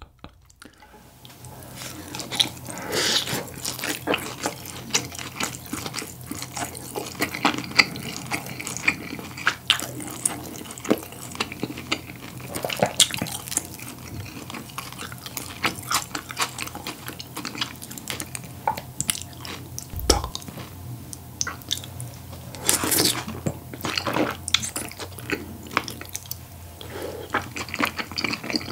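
Close-miked eating: a man chewing grilled beef brisket and tteokbokki rice cakes in sauce, with many short wet mouth clicks and smacks. Wooden chopsticks click now and then against the dish.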